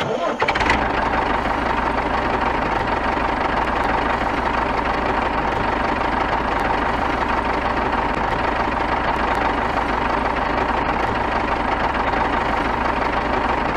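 Small motor running steadily, an even mechanical buzz with a constant whine and a low hum.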